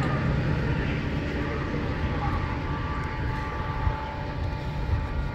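Metra commuter train hauled by a diesel locomotive, running away down the line: a steady low rumble whose engine hum fades out in the first second or so.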